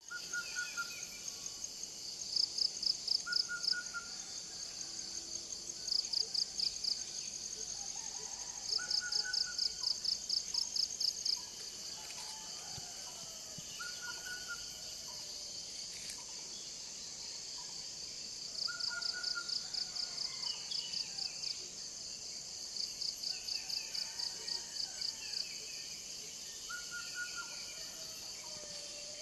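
Forest ambience: a steady high insect drone with bouts of rapid pulsed trilling. Over it, a bird gives a short call again and again, about every three seconds, with fainter calls scattered around it.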